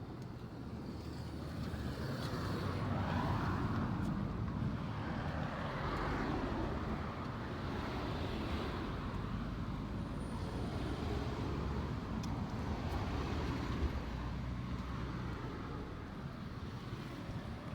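Road traffic noise: a steady low rumble of passing vehicles, swelling as cars go by about 3 and 6 seconds in.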